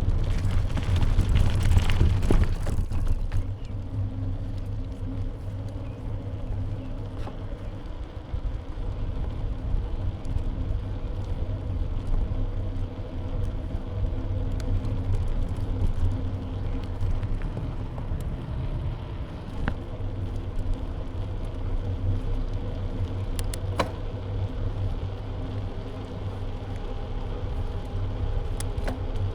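Wind and road rumble on a bike-mounted action camera's microphone while cycling, louder for the first few seconds, with a couple of sharp clicks later on.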